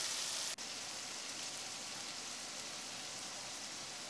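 Beef and red pepper strips frying in a nonstick pan with a splash of water, giving a steady, even sizzle; it briefly breaks and comes back slightly softer about half a second in.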